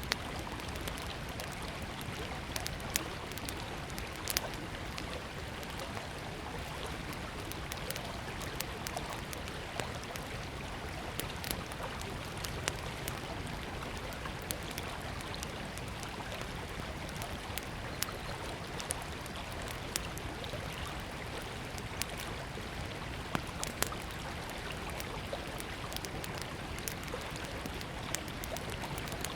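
Small wood fire crackling with irregular sharp pops over the steady rush of a flowing river.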